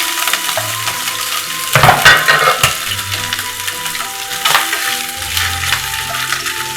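Food sizzling and crackling in a hot pan, with a louder surge of sizzling and stirring about two seconds in. Soft background music with steady tones underneath.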